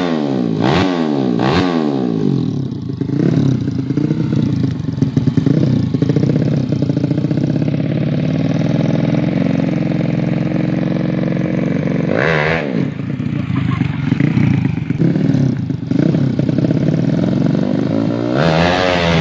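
Yamaha Jupiter underbone motorcycle engine, built up to 200cc for drag racing, revved hard in quick rising-and-falling blips, then held at high revs for several seconds. A sharp rev swing comes about twelve seconds in, and quick blips start again near the end.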